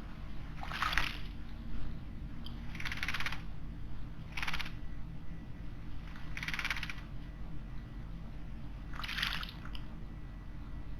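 A small bird bathing in a stone water basin, splashing in five short bouts of about half a second each, a second or two apart.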